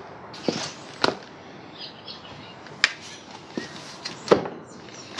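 Scattered metal clinks and knocks of tools and exhaust parts being handled while motorcycle exhaust header pipes are refitted, about five separate sharp taps with the loudest near the end.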